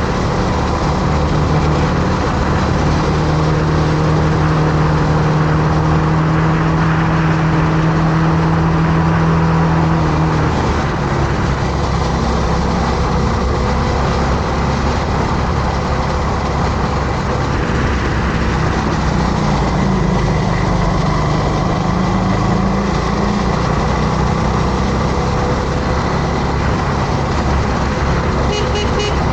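Motorcycle engine running under way, with a steady rush of wind and road noise. The engine note holds steady for about the first ten seconds, then changes and wavers as the ride goes on.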